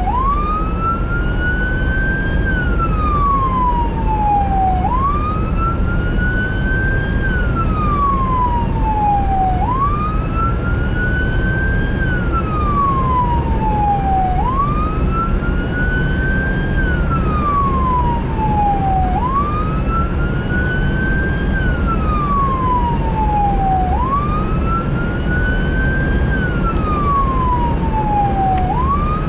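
Emergency vehicle siren on a slow wail, rising and falling about every five seconds, over a steady low rumble of engine and road noise.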